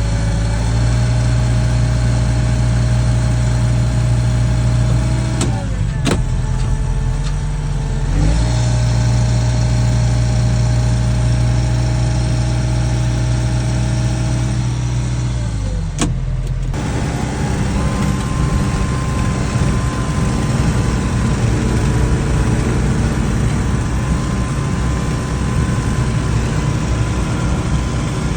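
Tractor engine running steadily under the rider. Its note drops twice, about five seconds in and again near sixteen seconds, each time with a sharp click, and after that it runs rougher.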